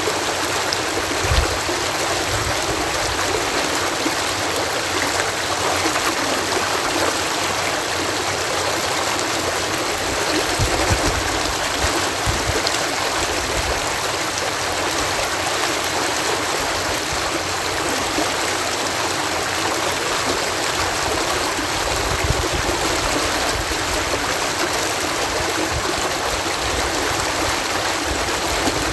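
Water cascading through a canal lock: a steady, even rushing, with a few brief low rumbles.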